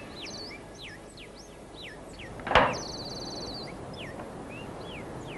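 Birds chirping with short, swooping calls and a couple of buzzy trills. A single sharp bang, the loudest sound, comes about two and a half seconds in.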